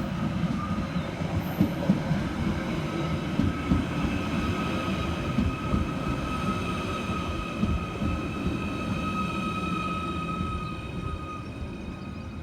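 Merseyrail Class 777 electric train pulling into the station: wheels rumbling and knocking on the rails, with a steady high whine throughout. The sound eases off near the end as the train slows.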